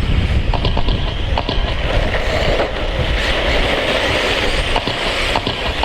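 Electric RC stadium trucks with 13.5-turn brushless motors whirring as they race round a dirt oval, with scattered ticks and a low rumble of wind on the microphone.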